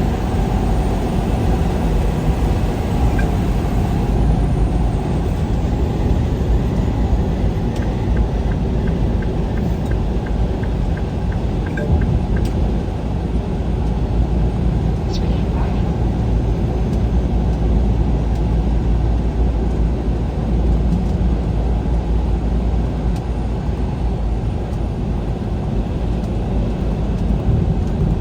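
Steady engine, tyre and wind noise heard from inside a vehicle moving along a highway, deep and unchanging throughout.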